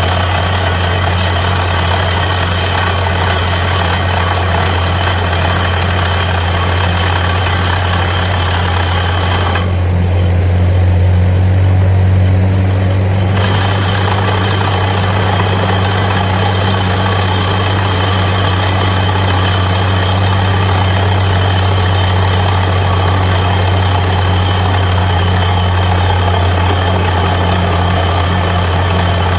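Borewell drilling rig running steadily: a loud, deep engine hum with steady higher whining tones above it. Near ten seconds in the higher tones drop away for about four seconds while the low hum grows a little louder, then they return.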